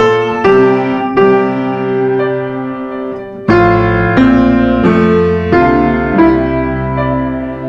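Background piano music: sustained notes and chords, with a fuller, deeper chord coming in about three and a half seconds in.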